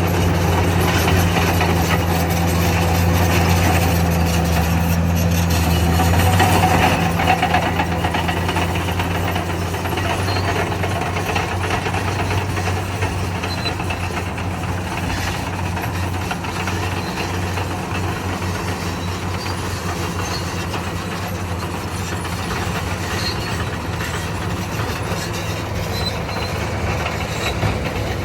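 Bulldozer's diesel engine running steadily under load as it pushes soil. The engine is loudest in the first ten seconds or so, then eases a little.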